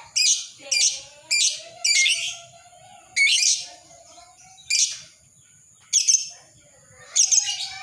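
Lovebird giving shrill, sharp calls, about eight short bursts at uneven intervals, a few of them drawn out longer.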